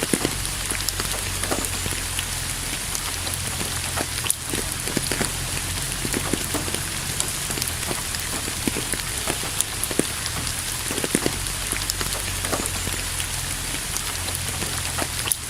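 Rain falling steadily, with many individual drops striking close by as sharp little taps over an even hiss.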